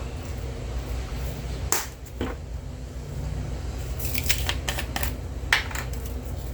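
Scattered light clicks and taps from seasoning containers being handled, a pair about two seconds in and a quicker cluster near the end, over a steady low hum.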